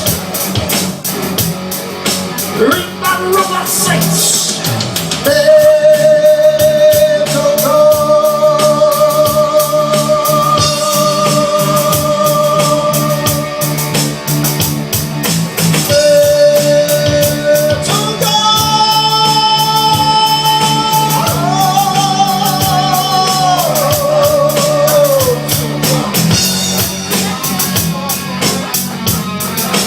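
Live heavy metal band playing: a singer holds long, wavering high notes over guitars, bass and drums.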